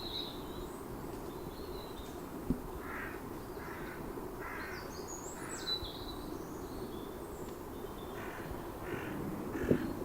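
A bird calling in two runs of about four calls each, roughly two calls a second, while smaller birds chirp higher and thinner.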